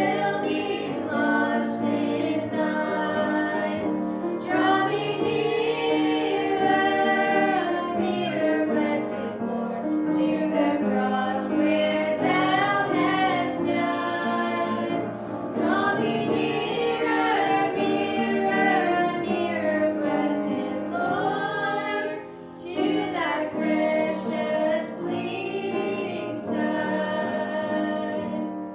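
A small family group singing a gospel song, women's voices prominent, in phrases with a brief pause about two-thirds of the way through.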